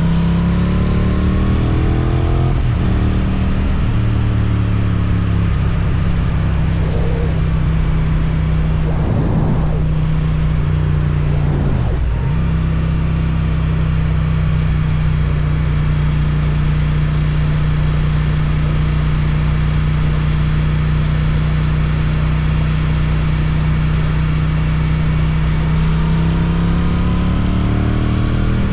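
Suzuki GSX-8TT motorcycle engine through an Akrapovic exhaust under way: the note falls as the throttle eases off at the start, then holds steady at a constant speed with two brief dips, and climbs again as it accelerates near the end.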